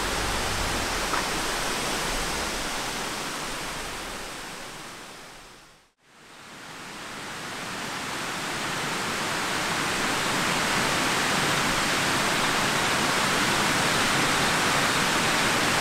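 Steady rushing of a waterfall. It fades out to silence about six seconds in, then fades back in.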